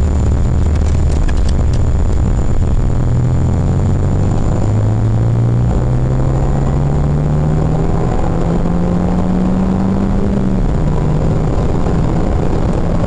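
Renault Mégane R26.R's turbocharged 2.0-litre four-cylinder engine, heard from inside the cabin, pulling hard under acceleration: its pitch climbs steadily, drops once about ten and a half seconds in at an upshift, then climbs again.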